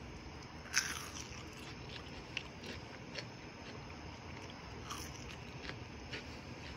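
A person biting into a crispy french fry, with one sharp crunch about a second in, then chewing with faint, scattered crunches.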